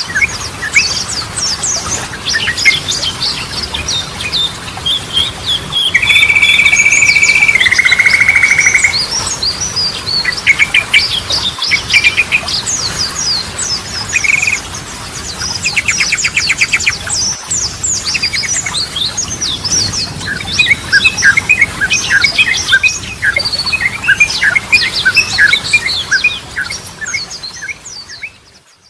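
Yellow-vented bulbul song: a fast run of varied chattering chirps, with a steady held note a few seconds in that breaks into a buzzy trill. It fades out near the end.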